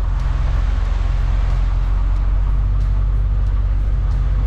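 MAN truck's diesel engine running steadily at cruising speed, a constant low drone heard inside the cab with road noise.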